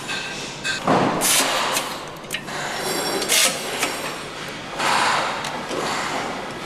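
Irregular clattering and knocks, with several short bursts of rushing noise.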